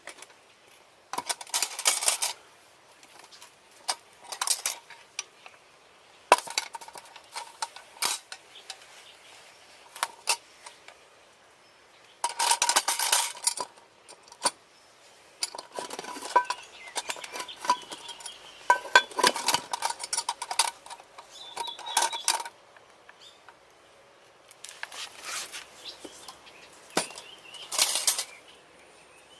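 Metal cookware clattering: utensils clinking and scraping against metal pots in irregular bursts, some hits ringing briefly.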